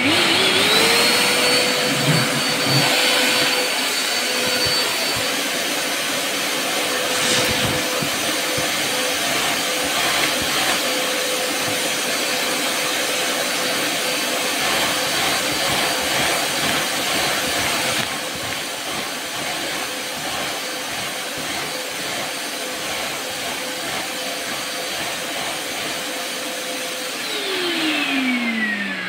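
Canister vacuum cleaner switched on, its motor spinning up within the first second into a steady whine with a rush of air. Near the end it is switched off and the whine slides down in pitch as the motor winds down.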